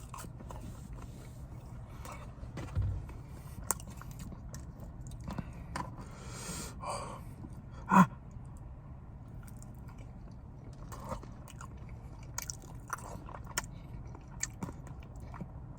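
A person chewing and biting food, with scattered small crunches and mouth clicks. A sharper, louder bite or mouth sound comes about eight seconds in.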